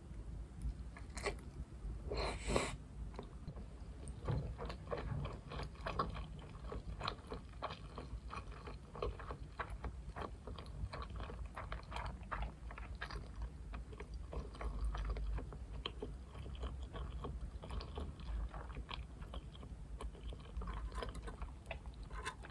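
Close-miked chewing of sushi: a steady run of soft, wet mouth clicks and smacks, with a louder brief rustle about two and a half seconds in.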